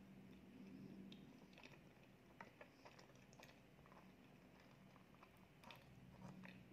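Faint, soft chewing and wet mouth clicks from eating honey cream cheesecake, scattered irregularly over a low steady hum.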